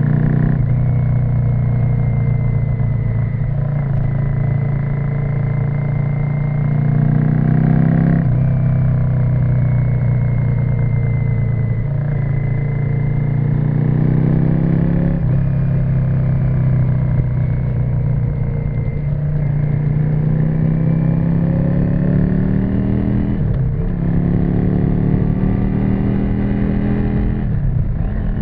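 Yamaha XV535 Virago's 535 cc V-twin running through a custom exhaust while riding. Its note climbs and falls, with sharp dips about every four seconds as the throttle is rolled off or a gear is changed.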